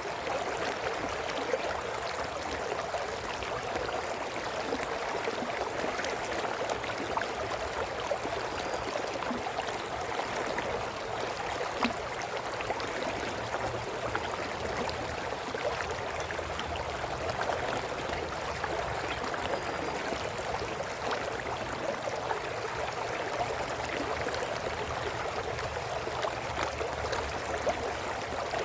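Brook water flowing steadily over rocks, babbling and trickling.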